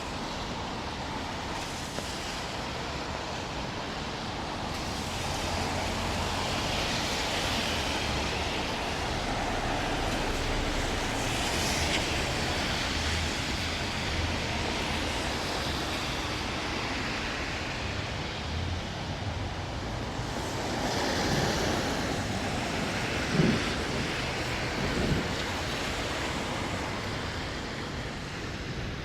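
Steady city rain hiss, with wet-road tyre noise swelling and fading as vehicles pass. Two brief thumps come about three-quarters of the way through.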